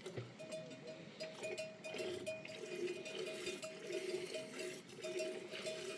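Bells on grazing livestock clanking again and again in an uneven rhythm, with animal calls under them.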